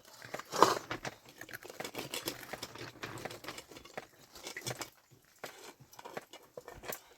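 Rustling with many scattered clicks and taps, and a louder rustle about half a second in.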